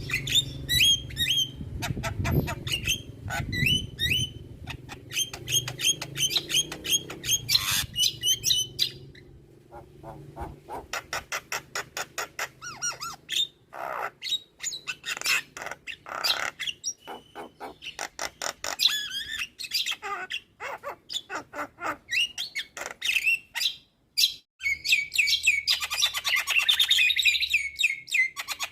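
Javan myna (jalak kebo) singing a long, varied song of rapid chirps, clicks and whistled notes, packed with mimicked phrases ('full isian'). There is a brief break about two-thirds of the way through, then a dense run of warbling near the end.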